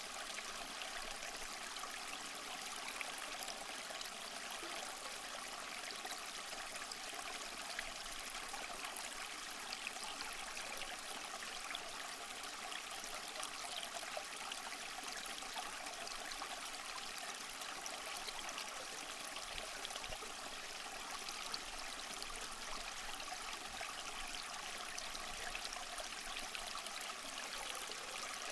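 Small waterfall splashing and trickling steadily over mossy rocks, a continuous even rush of water with fine splashy detail.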